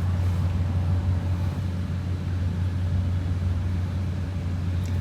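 Steady low machine hum, a constant drone that does not change.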